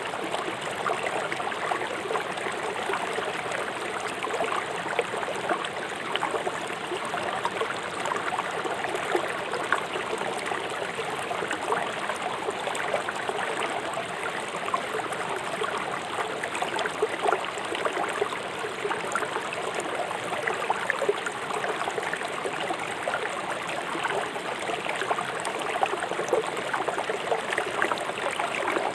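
River water flowing fast over rocks, a steady rushing and splashing.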